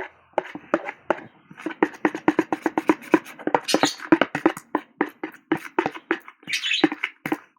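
Homemade slime being stirred and squished in a bowl: a rapid, irregular run of short wet squelching clicks and pops, several a second.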